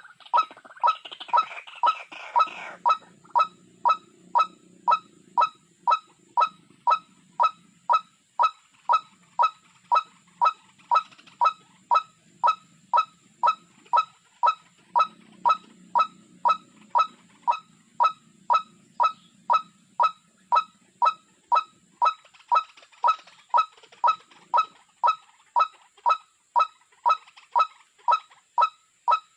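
A single short, honking bird call repeated at an even pace, a little under two calls a second, every note alike in pitch and loudness. It is typical of a looped call recording played through a small speaker as a lure for trapping birds.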